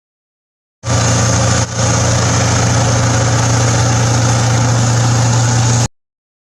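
A loud, steady engine running sound with a deep hum. It starts suddenly about a second in, dips briefly just after, and cuts off abruptly about five seconds later.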